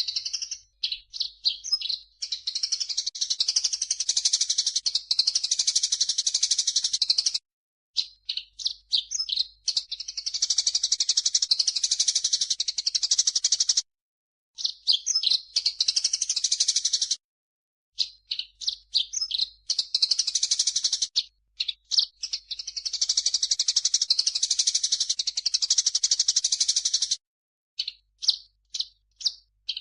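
Recorded birdsong mixing grey-cheeked bulbul (cucak jenggot) and Eurasian tree sparrow calls: quick separate high chirps alternating with dense chattering runs several seconds long. The song stops dead for short gaps about four times, where the looped tutor track is cut.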